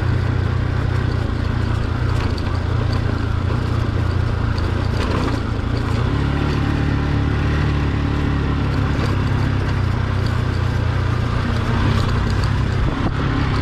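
Motorcycle engine running steadily under way, with wind and road noise; the engine note shifts up about six seconds in, and there are a few short knocks.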